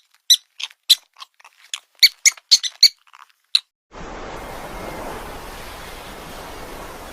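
A quick run of about a dozen short, high-pitched animal squeaks over three and a half seconds, then a steady hiss of background noise from about four seconds in.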